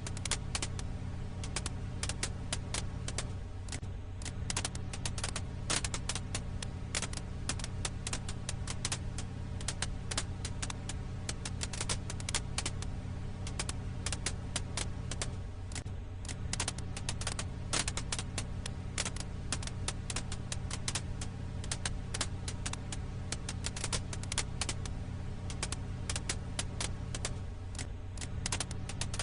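Campfire firewood crackling: a dense, irregular run of sharp pops and snaps over a steady low hum.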